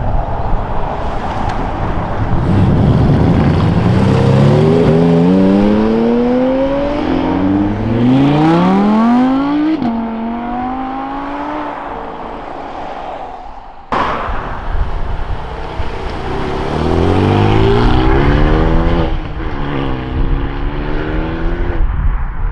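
Modified cars accelerating hard away, the engine note climbing steeply through the revs, then dropping sharply about ten seconds in as it shifts up. After a sharp click in the middle, more cars pull away, their engine notes climbing again in the second half.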